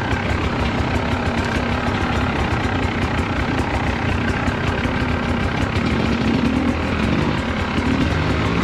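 Two-stroke dirt bike engine idling steadily, with the revs rising briefly near the end.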